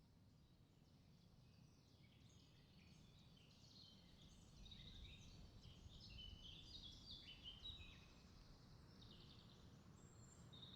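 Faint birdsong: many quick high chirps and trills, busiest in the middle, over a low steady background rumble.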